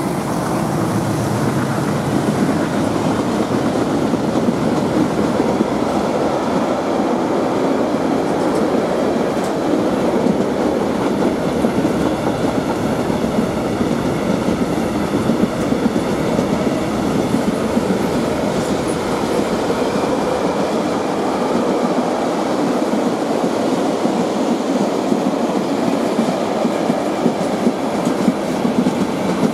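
Container wagons of a freight train rolling past close by: a steady rumble and rattle of wheels on the rails. The deeper sound of the locomotive fades away in the first couple of seconds.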